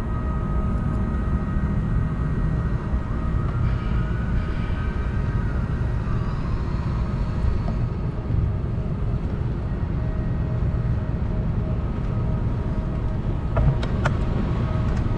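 Wind rumbling on the microphone of a moving bicycle, over the steady hum of a passing vehicle with a faint whine that rises and falls in pitch. A few sharp clicks near the end.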